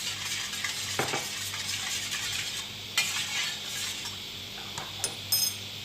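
A utensil stirring and scraping flour and water together in a bowl to start a dough, with a few short, light metallic clinks a little after five seconds in.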